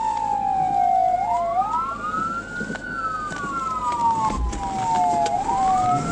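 Police car sirens in wail mode: two tones sliding slowly down and back up, out of step with each other, over steady low vehicle and road noise.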